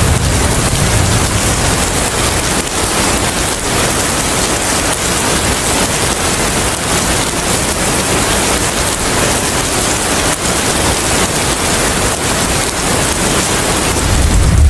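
Steady rain, a dense even hiss with no breaks. A low rumble comes back in just before the end.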